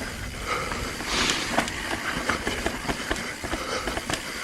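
Mountain bike on a rough trail: scattered clicks and knocks from the bike over a steady low rumble of wind on the microphone, with a short hiss about a second in.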